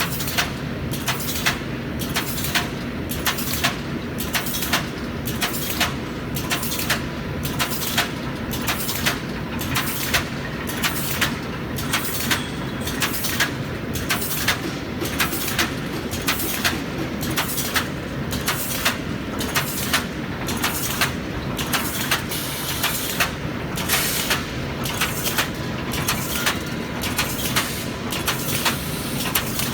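Automatic wire mesh panel welding machine running in production: a steady machine hum with sharp, evenly spaced clacks of its working cycle, roughly three every two seconds.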